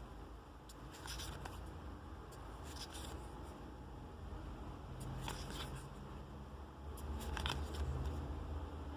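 Trading cards and their packaging being handled: a few short rustling scrapes, a couple of seconds apart, over a low steady hum.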